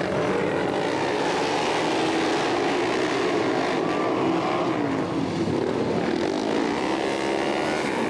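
Several flat-track racing motorcycles running together, their engines revving up and down in overlapping rising and falling pitches.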